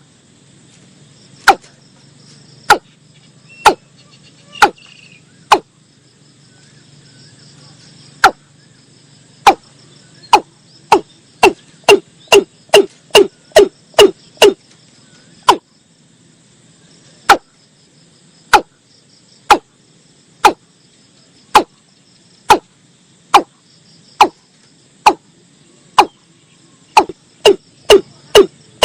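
Watercock calling: a long series of short, clipped notes, about one a second, speeding up to two or three a second for a few seconds in the middle, then slowing again. Crickets trill steadily underneath.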